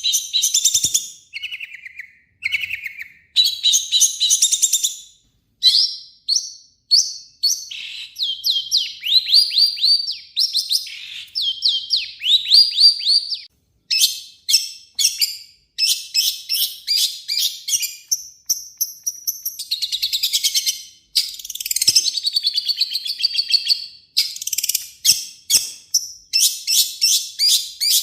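Long-tailed shrike (cendet) singing a fast, varied run of high chirps, trills and quick repeated notes, with only brief pauses. This is the full, rough-phrased 'gacor' song that keepers play to provoke a caged shrike into answering.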